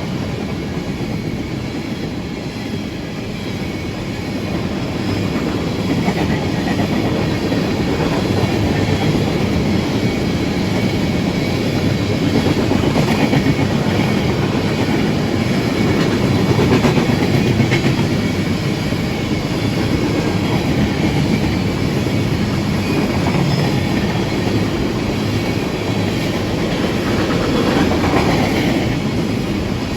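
A train rolling past, its cars running steadily over the rails with no let-up.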